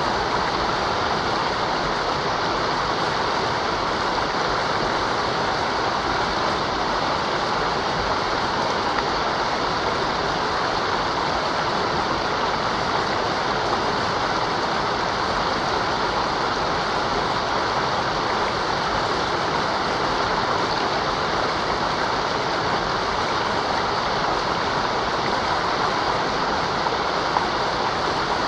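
Mountain river running over rocks: a steady, even rush of water that does not change.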